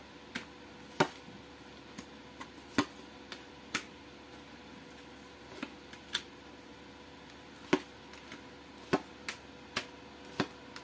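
Tarot cards being handled and laid down on a table: about fifteen short, sharp clicks and taps spaced irregularly, some louder than others.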